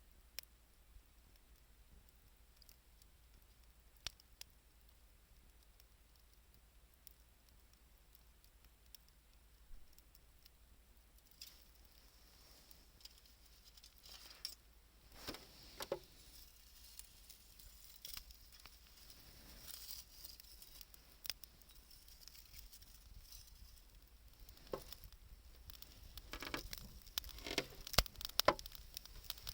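Wood fire crackling with scattered sharp pops, sparse at first, growing busier from about halfway and loudest near the end.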